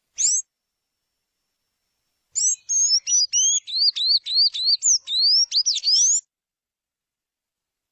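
A songbird singing: one short high call, then a rapid run of high, sweeping whistled notes lasting about four seconds.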